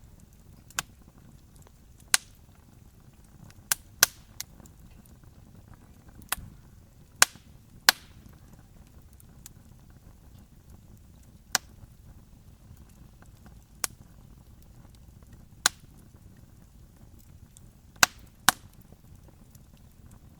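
Wood campfire crackling: a dozen or so sharp, irregularly spaced pops and snaps over a low, steady rumble.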